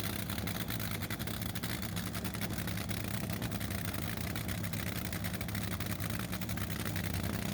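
A drag racing car's engine idling steadily with a fast, even crackle.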